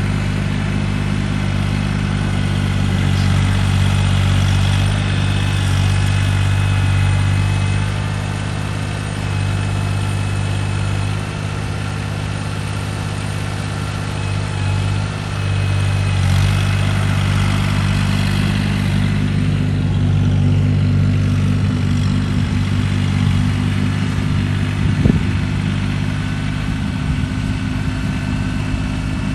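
Engine of a snow-clearing machine running steadily as it clears deep snow from a driveway, its level easing for a while and picking up again. Near the end there is a single sharp knock.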